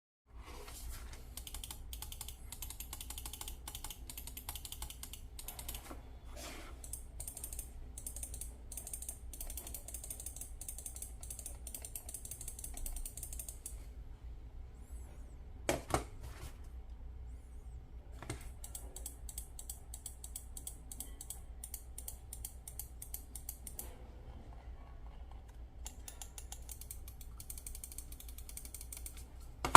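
Typing on a Keychron C2 mechanical keyboard with brown switches: a fast, continuous run of key clicks that stops about halfway, with one louder clack during the lull, then starts again and grows sparser toward the end.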